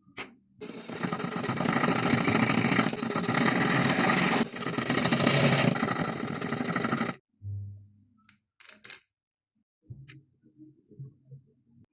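A small electric motor runs steadily for about six and a half seconds, drops out briefly a little past halfway, then stops; a few sharp clicks follow.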